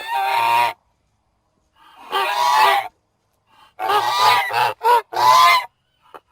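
Goose honking: one call at the start, another about two seconds in, then a quick run of four honks near the end.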